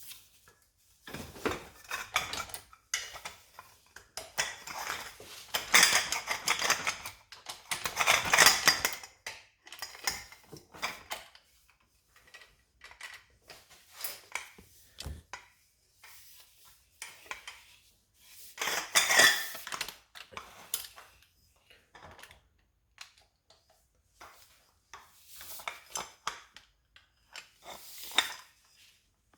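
Metal hand tools and engine parts clinking and scraping in irregular bursts during engine teardown work, with short pauses between.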